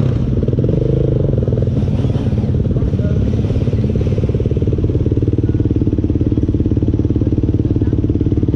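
Motorcycle engine running steadily, its note shifting slightly about five seconds in.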